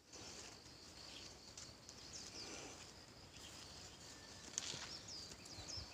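Faint outdoor ambience: small birds giving short, high chirps several times over a steady high hiss, with a few light clicks.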